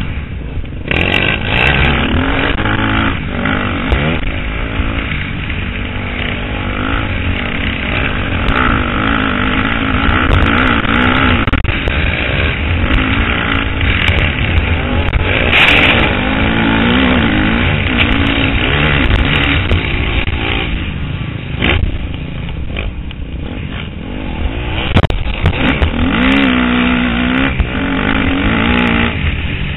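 KTM 250 SX-F four-stroke single-cylinder motocross engine, heard from the rider's helmet, revving up and falling back again and again as the throttle opens and shuts, with brief dips in pitch as it comes off the gas.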